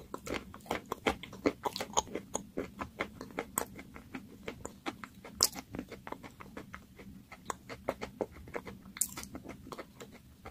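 Close-miked mouth sounds of a person chewing and eating a thick, pasty food: a quick run of small wet, sticky clicks, about four or five a second, with a few louder smacks.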